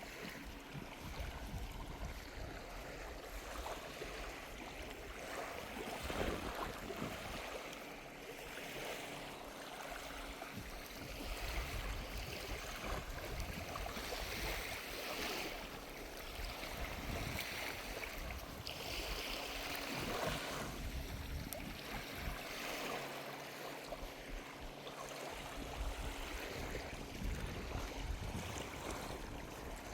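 Gentle ocean waves washing up on a sandy beach, swelling and fading in slow surges, with sea breeze buffeting the microphone in low gusts.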